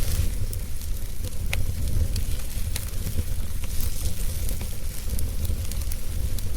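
Campfire burning, with a steady hiss and scattered sharp crackles and pops, one louder pop about a second and a half in, over a low steady rumble.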